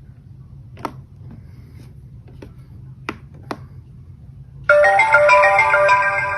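360 S6 robot vacuum playing its power-on chime, a bright chord of several ringing tones that starts suddenly about three-quarters of the way through and fades slowly, after the power button has been held down. A few faint clicks come before it.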